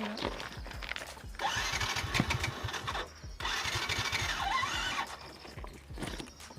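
Motorcycle electric starter cranking in two bursts of about a second and a half each, the engine not catching. The rider afterwards suggests switching the key off and on.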